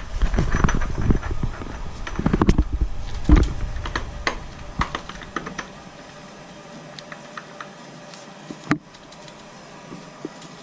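Hand tools and metal motorcycle parts being handled during chain and sprocket work: a run of clicks and knocks, busiest in the first four seconds, then sparse light ticks and one sharp click near the end.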